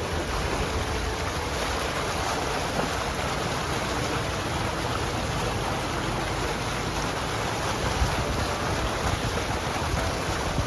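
Mountain stream rushing over rocks: a steady, unbroken noise of running water.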